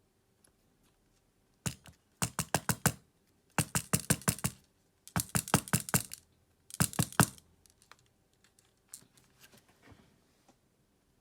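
Rapid clicking from hand tools and plastic parts during a smartphone teardown: four quick runs of several sharp clicks each, then fainter scattered clicks near the end.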